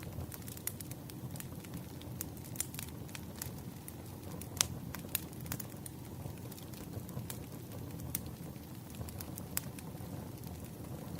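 Burning firewood crackling over a steady low rumble, with scattered sharp pops; the loudest pop comes about halfway through.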